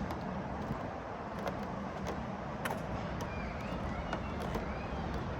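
Steady outdoor background rumble, like distant traffic, with a few light clicks and some faint short chirps in the second half.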